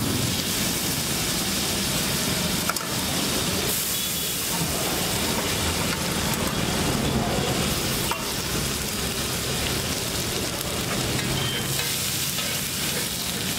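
Pieces of boiled egg sizzling in hot oil on a large flat iron griddle, a steady frying hiss, with a metal spatula stirring and scraping over the iron and a couple of sharp clicks.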